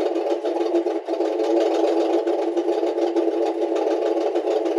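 2013 Dodge Ram pickup's engine idling steadily, with a rapid, even clatter.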